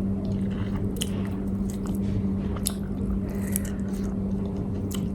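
Close-miked chewing and biting of food, with scattered short wet mouth clicks and smacks, over a steady low hum.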